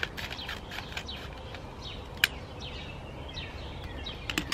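A songbird repeating clear down-slurred whistles, each note sliding down in pitch, over steady outdoor background noise. Scissors snip the paper tea pouch right at the start, and a sharp click about two seconds in and a few light clicks near the end come from the pouch and teaware being handled.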